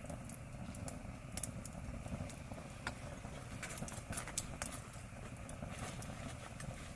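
Wood campfire crackling: irregular sharp snaps and pops over a low steady rumble.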